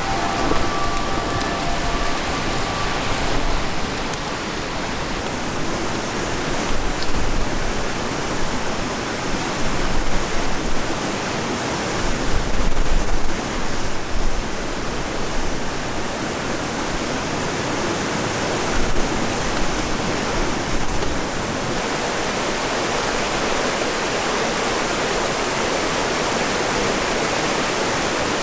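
Strong winter wind blowing steadily, with gusts rumbling low on the microphone, around 10 to 15 seconds in and again near 20 seconds.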